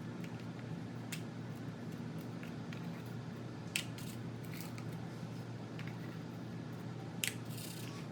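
A few sharp clicks and a short rustle as a small measuring cup presses crumb crust down into paper dessert cups, over a steady low hum.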